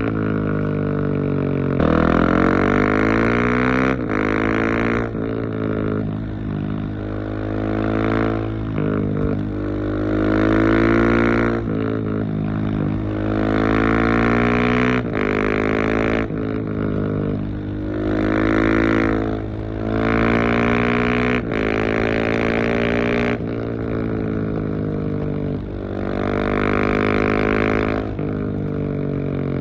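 Husqvarna 701 Supermoto's single-cylinder four-stroke engine through a LeoVince exhaust with dB-killer, pulling hard through the gears: the revs rise again and again, each climb cut short by a gear change, with falls in pitch where the throttle is rolled off.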